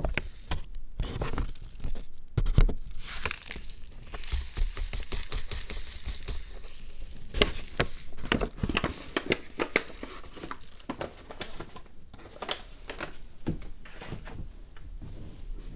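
Close-up handling noises from building a miniature diorama: crinkling, scratchy scraping and light taps. There is a stretch of steady hiss about three seconds in.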